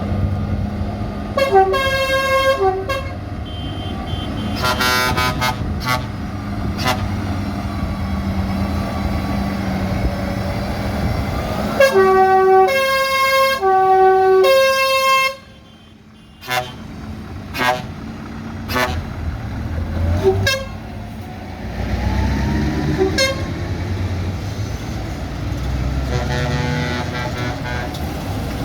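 Trucks sounding their horns in a series of blasts over running engines, the longest and loudest blasts coming about halfway through.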